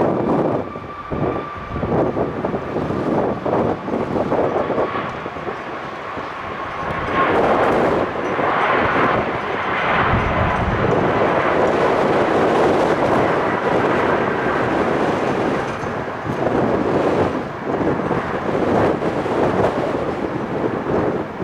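Departing Boeing 737 MAX 8's CFM LEAP-1B turbofans at takeoff thrust: a loud, steady rushing jet noise with a faint whining tone. It swells about a third of the way in, and wind buffets the microphone.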